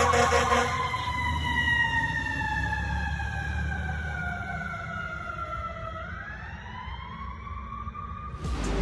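Fire engine siren winding slowly down in pitch, then starting to rise again about six seconds in, over the steady rumble of the truck's engine. A brief loud blast sounds at the very start.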